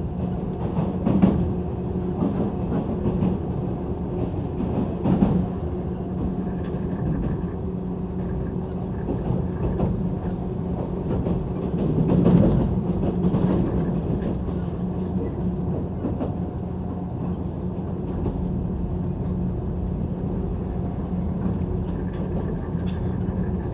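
JR East 185-series electric train running, heard from inside the carriage: a steady rumble of wheels on rail with a constant low hum, and a few knocks over rail joints, the loudest about twelve seconds in.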